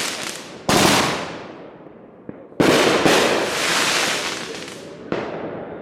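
Consumer aerial fireworks going off: a sharp bang about a second in and a louder one a couple of seconds later, each trailing off in a long crackle, with a smaller bang near the end.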